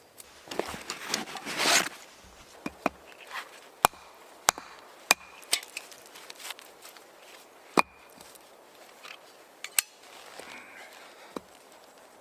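A brief rustling crunch, then a dozen or so sharp knocks and snaps of wood at irregular intervals.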